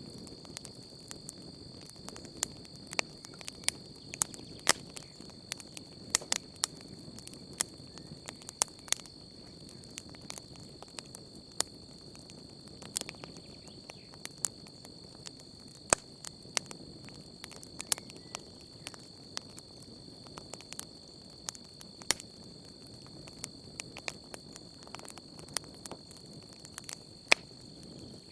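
Wood campfire crackling, with irregular sharp pops a few times a second over a soft low rush of burning. Behind it runs a steady high-pitched trill of crickets.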